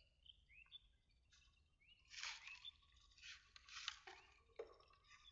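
Faint bird chirps, short rising calls, heard a few times in the first two seconds, then several brief faint rustling bursts over low background noise.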